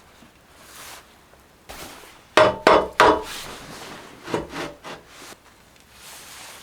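Handling noises: scraping, then three sharp knocks in quick succession about two and a half seconds in, and a few lighter knocks about two seconds later.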